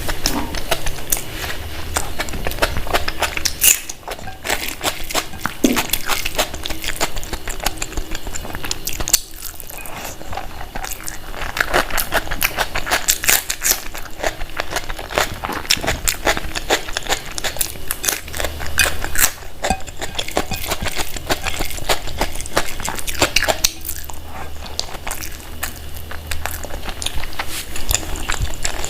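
Close-miked eating: biting and chewing food, with a steady stream of small wet crackling clicks from the mouth.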